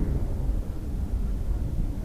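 Low, steady rumble of distant jet aircraft, with wind buffeting the microphone.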